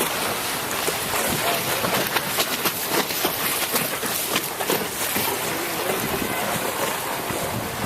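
Water rushing and splashing against a boat's hull: a steady hiss dotted with many small crackling splashes.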